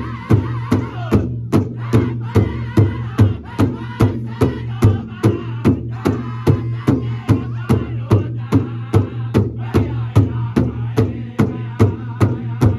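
Powwow drum group: several men singing in high, wavering voices around a large powwow drum, struck together in a steady beat of about two strokes a second. The voices drop out briefly near the start while the drum keeps going.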